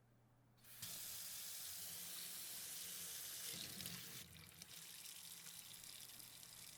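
Water pouring in a steady stream, starting about a second in and going quieter after about four seconds.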